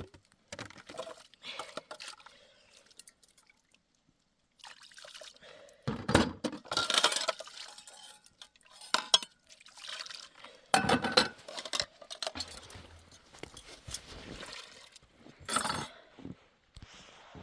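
Water pouring and splashing in irregular bursts, with occasional clinks.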